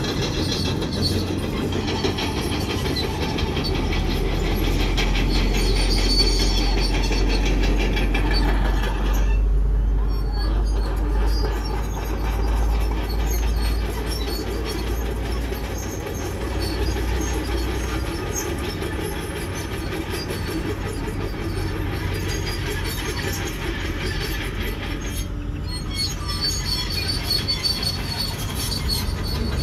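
Crawler bulldozer at work: its diesel engine running under load, with the steel tracks clanking and squealing.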